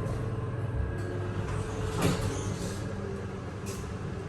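Hydraulic passenger elevator running: a steady low hum, with a few clicks and a louder knock about two seconds in.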